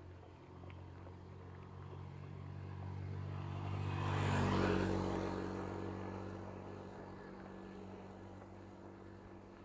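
A motor vehicle passing close by on the road: its engine hum builds to a peak about halfway through, drops in pitch as it goes past, and then fades away.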